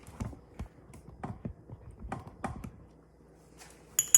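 Irregular light clicks and taps of cutlery and a plate being handled, with one sharper click near the end.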